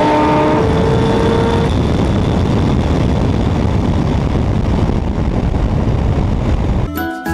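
Loud car engine running hard, a dense steady roar with a few held whining tones in the first second or so. Music cuts in near the end.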